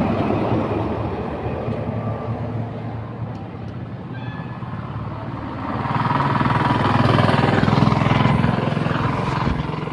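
Road traffic: motor vehicles running past with a steady engine drone. One passes louder from about six seconds in and fades near the end.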